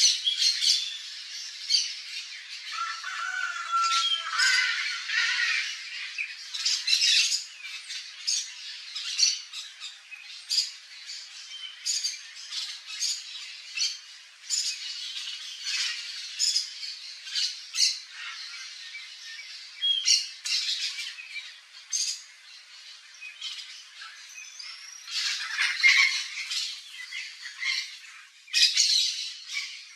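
Yellow-faced parrots calling: short squawks repeated throughout, some overlapping and coming in quick clusters near the end. A brief steady whistle is heard about three seconds in.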